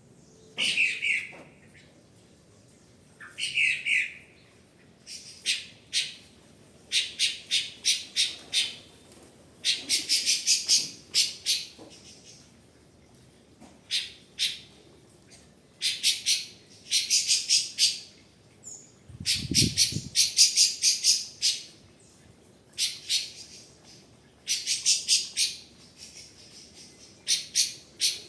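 A bird calling in repeated bursts of rapid, harsh chattering notes, each burst a second or two long with short pauses between, and two shorter, lower calls in the first few seconds. A dull low thump sounds about two-thirds of the way through.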